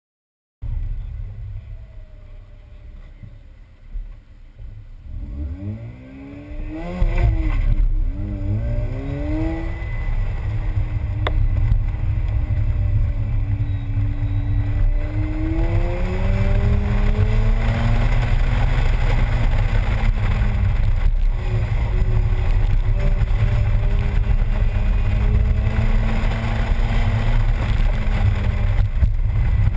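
Mazda RX-8's twin-rotor rotary engine on an autocross run: after a quieter start it revs up and down sharply a few times, then runs hard, its pitch rising and falling repeatedly as the car accelerates and slows, over a steady low rumble.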